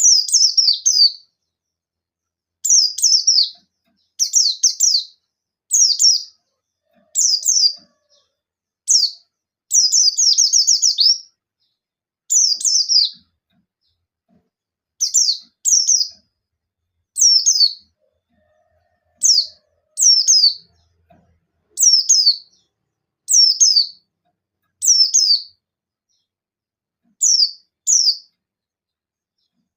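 Buxtoni white-eye (pleci) giving sharp, high, falling call phrases of one to three quick notes every one to two seconds, with a longer rapid run of notes about ten seconds in. These are the 'nembak' challenge calls that keepers play to set other white-eyes singing.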